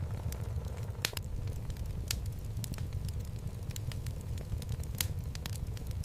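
Wood fire burning in a fireplace: a steady low rumble of the flames with irregular sharp crackles and pops from the logs, a few louder pops about one, two and five seconds in.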